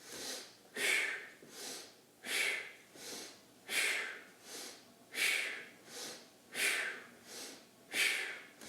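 A man breathing hard and rhythmically in paced breaths, a stronger and a softer breath in turn, about one in-and-out every one and a half seconds. This is the paced inhale-exhale that goes with each rock of the wobble-chair disc exercise.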